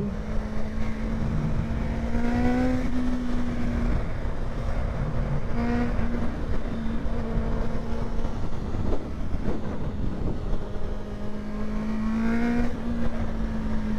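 Honda CBR650 inline-four with an aftermarket exhaust, ridden at speed: the engine note rises three times as the bike accelerates, over heavy wind rush on the microphone. A steady electrical buzz from the recording setup runs underneath.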